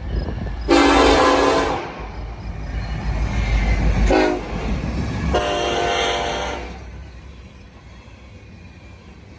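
Diesel freight locomotive's air horn sounding a long blast, a short toot and another long blast, the pattern that ends a grade-crossing signal. The low rumble of the train runs underneath and dies away near the end.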